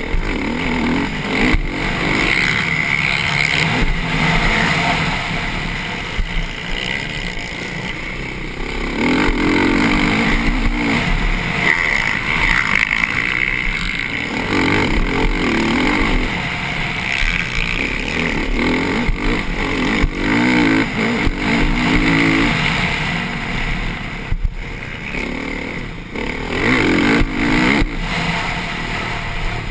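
Motocross bike engine under race load, revving up hard and backing off again and again as the rider accelerates down straights and shuts off for corners. Heard close up from the rider's helmet camera, with wind and track noise beneath.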